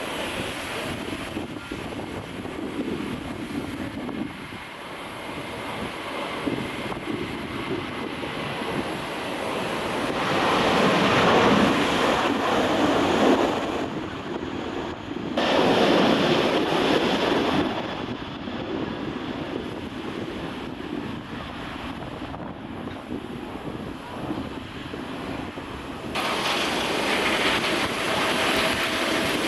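Jet airliner engines at takeoff thrust, a broad rumbling roar that swells loud as a plane passes and then fades. The sound changes abruptly where clips of different aircraft are joined, with the loudest passes about a third of the way in and again just past halfway.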